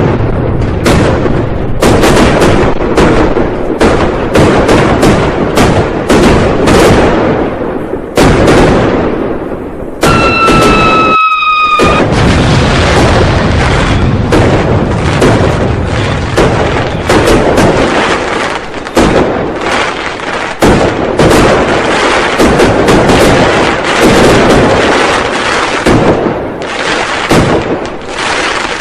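New Year firecrackers and fireworks going off in a dense, continuous barrage of cracks and booms. About ten seconds in, a whistle falls slightly in pitch for about two seconds.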